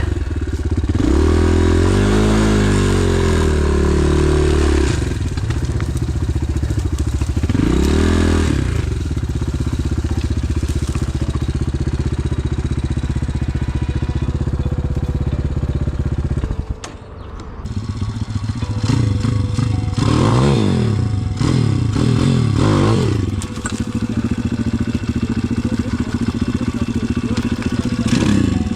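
Pit bike engine revving up and down hard while riding a rough forest trail, with the bike clattering over the ground. About seventeen seconds in, the engine drops off briefly, then picks up again.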